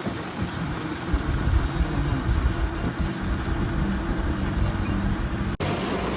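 Steady vehicle driving noise: a low engine and road rumble under a dense, even hiss. The sound cuts out for an instant about five and a half seconds in.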